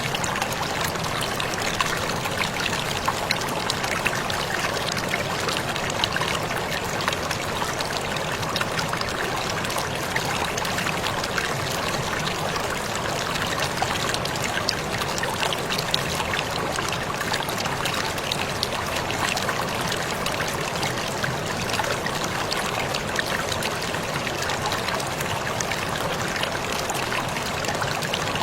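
Waterfall running steadily: a continuous rush of falling water with many small splashes, unchanging throughout.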